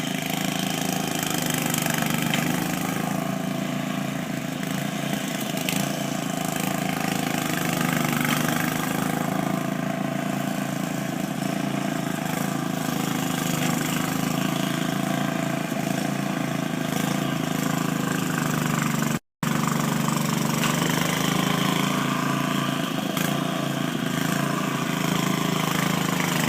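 An engine running steadily at a constant speed. It cuts out to silence for a moment about 19 seconds in, then carries on.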